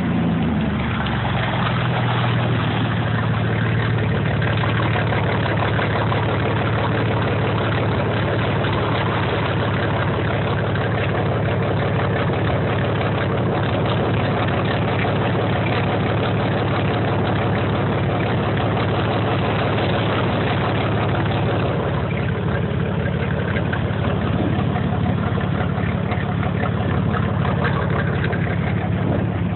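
Chevy Blazer's engine running through a Magnaflow exhaust, dropping back from a rev at the start and then idling steadily and loudly for the rest.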